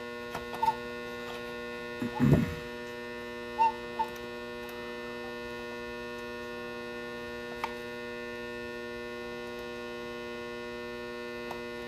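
Steady electrical mains hum fills the background, with a few small clicks and taps from small clock parts being handled, and a short low sound about two seconds in.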